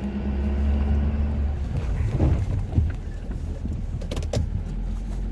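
Ford F-250's 6.7-litre Powerstroke V8 turbodiesel running steadily while plowing, with a few short knocks about two to four and a half seconds in.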